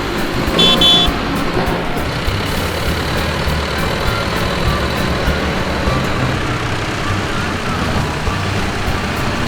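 Tractor engines running steadily together, with a short high beep about half a second in.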